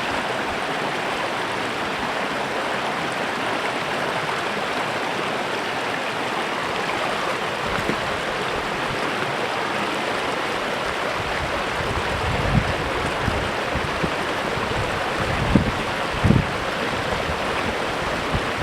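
Small creek flowing steadily, a continuous rushing and babbling of water. In the second half, a few short low rumbles of wind on the microphone.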